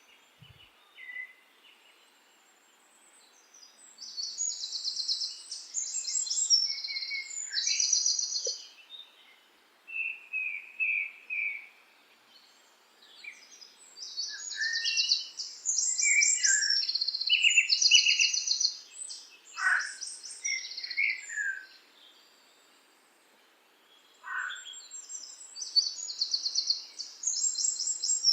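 Songbirds singing: high, rapid trilled phrases a few seconds long, separated by short pauses, with lower chirps and a couple of falling whistles in between.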